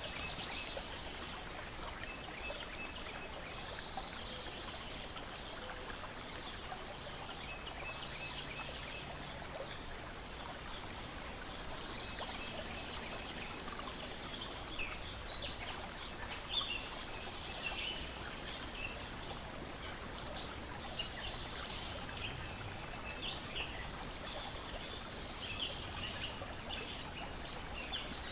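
Layered nature ambience: a steady wash of lake water lapping at the shore, with birds chirping and singing and a short repeated trill every few seconds. Short sharp clicks come more often in the second half.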